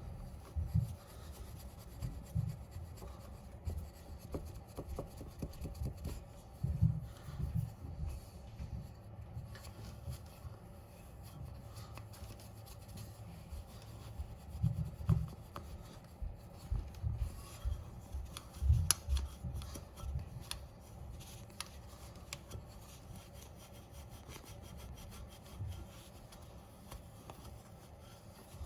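A pad scrubbing rust off a chrome motorcycle wheel rim and its spokes by hand: irregular rubbing strokes with dull knocks.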